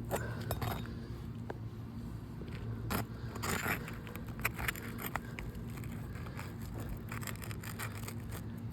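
Scraping, crackling and scattered clicks of a small prying tool worked under asphalt roof shingles to reach and pull their nails, the shingle mat tearing and pulling through around the fasteners. A steady low hum runs underneath.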